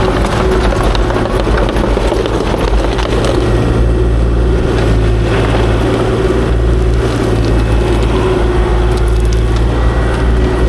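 Kubota KX040-4 excavator's diesel engine running steadily under work, with a steady whine over the low engine drone and some rough crackling noise.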